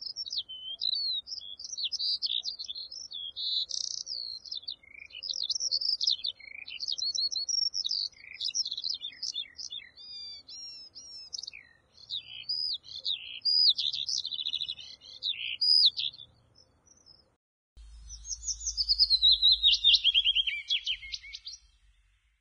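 Songbirds singing in a busy run of varied chirps and whistled phrases. After a short break near the end, a quick series of notes falls in pitch over a low rumble.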